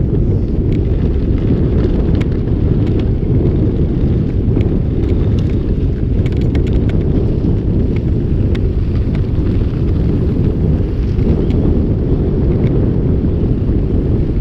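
Wind rumbling steadily and loudly on a GoPro's microphone during a mountain-bike ride, with scattered sharp clicks and rattles from the bike on the rough trail.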